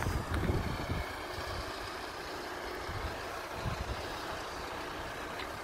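Steady low rumble of an approaching Irish Rail Class 22000 diesel multiple unit, with wind gusting on the phone microphone in low thumps, most strongly in the first second.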